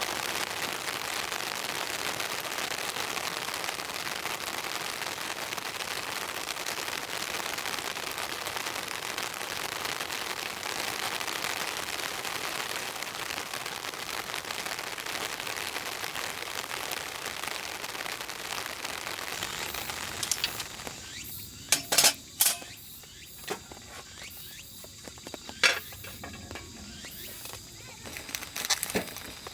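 Rain falling steadily, an even hiss, for about twenty seconds; then it gives way abruptly to a quieter stretch broken by a few sharp cracks and snaps, like wood crackling or breaking.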